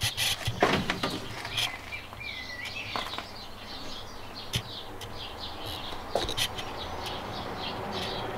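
Birds chirping in short repeated calls, with a few sharp clicks and knocks and a steady low hum underneath.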